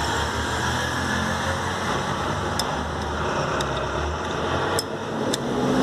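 A steady low mechanical hum, with four small sharp metallic clicks in the second half as rollers are pressed into the one-way starter clutch.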